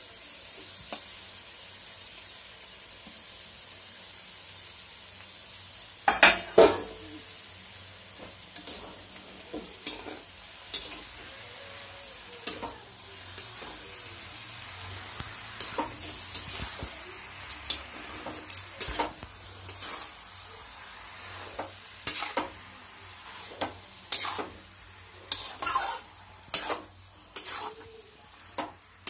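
Tripe and intestines sizzling in hot oil in a metal kadhai while being stir-fried. From about six seconds in, a steel spatula scrapes and knocks against the pan in repeated sharp clicks, the loudest just after the first strokes.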